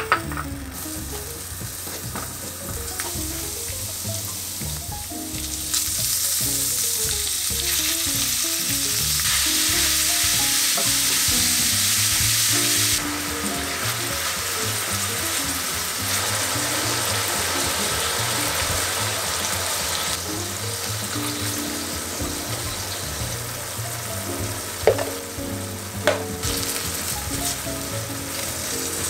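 Food sizzling in a hot frying pan as it is stirred, louder for several seconds in the middle, with two sharp clicks near the end.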